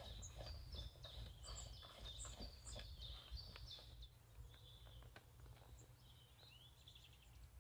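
Faint songbird singing quick runs of short, high chirping notes, over a steady low rumble and a few faint clicks.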